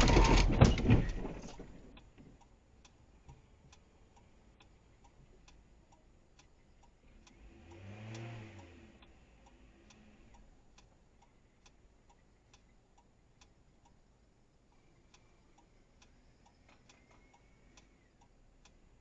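A car crash impact, loud crunching and rattling debris that dies away over about two seconds, followed by a car's indicator ticking steadily about twice a second. About eight seconds in, another vehicle passes by with a rising and falling hum.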